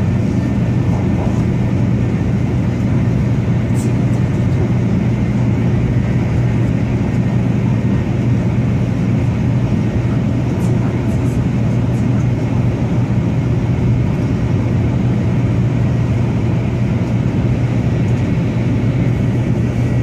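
Steady cabin noise inside a Taiwan High Speed Rail 700T bullet train running at speed: a constant low hum under an even rush of wheel and air noise.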